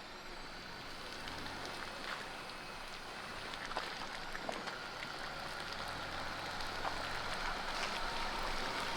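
Jeep Gladiator Rubicon creeping along a rough dirt trail: a low steady engine and drivetrain hum under the hiss of tyres on dirt and stones, with scattered crackles and scrapes, slowly growing louder.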